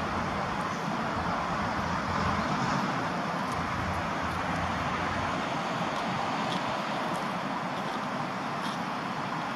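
Steady road traffic noise: passing cars make a continuous rush, with a slightly heavier low rumble a couple of seconds in.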